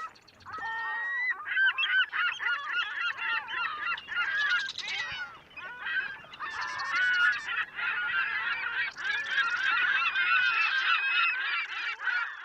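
A flock of birds calling all at once: a dense chorus of many overlapping short calls that bend up and down in pitch.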